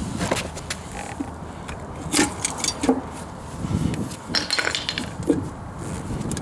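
Metal hand tools and engine parts clinking and knocking while a small-block Ford engine is being taken apart, a handful of irregular sharp clinks.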